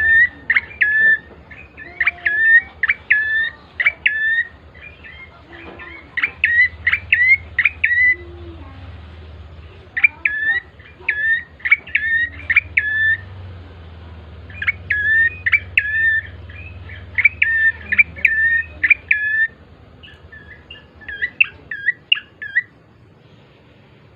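Prenjak coki (ashy tailorbird) singing: quick runs of sharp, high chirping notes repeated phrase after phrase with short pauses, stopping near the end. A faint low hum runs underneath.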